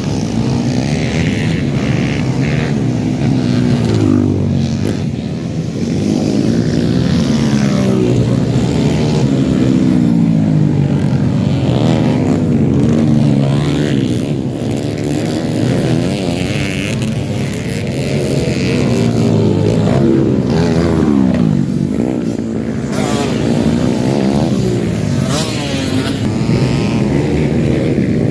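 Several dirt-bike engines racing on a motocross track, their pitch rising and falling over and over as the riders rev, shift and pass.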